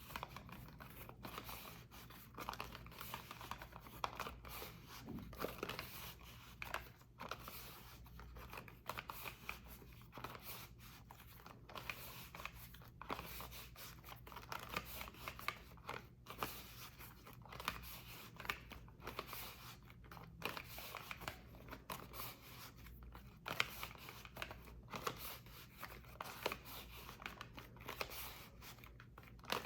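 Dry soap crunching and scraping close up: a continuous run of crisp, irregular crackles and scratches with occasional sharper clicks.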